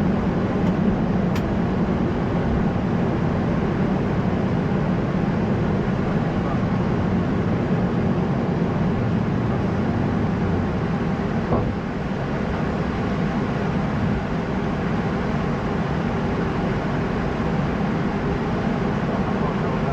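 Steady flight-deck noise of an Airbus A220-100 in the climb: a constant rush of airflow and engine noise with a low hum.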